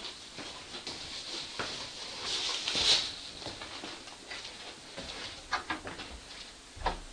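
Water from an upstairs toilet flush rushing through the building's pipes, a hiss that swells to its loudest about three seconds in, with scattered light clicks and knocks.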